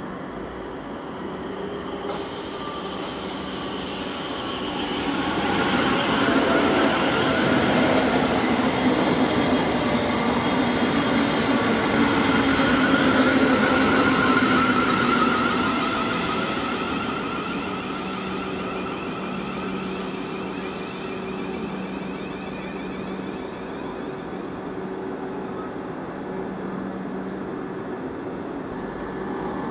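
A South Western Railway electric multiple unit running past close by on the rails, building up to its loudest in the middle and then fading, with a high whine that rises slowly in pitch as it passes.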